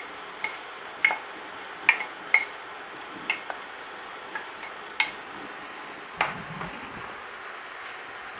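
Chicken frying in oil and masala paste with a steady sizzle, while a stirring utensil clinks and scrapes against the pot about eight times at irregular intervals.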